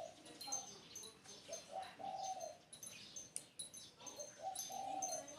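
Spotted dove cooing: two short phrases of low coos, one about a second and a half in and one near the end, with many short high chirps from other small birds throughout.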